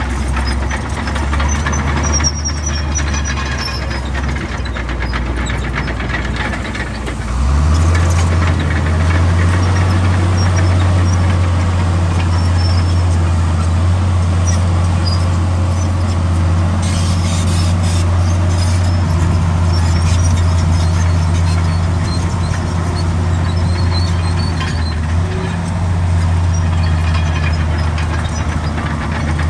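Heavy diesel engine of earthmoving machinery running under work. It gets louder and steadier about seven seconds in, as if taking up load.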